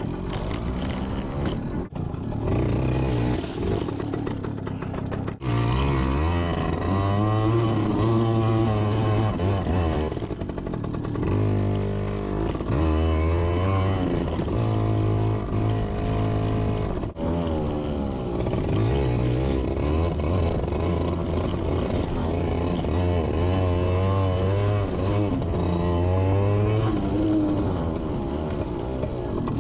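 Yamaha PW80's small two-stroke single-cylinder engine revving up and down while the mini dirt bike is ridden along a trail, the pitch rising and falling over and over, with a few sudden short drops when the throttle is chopped.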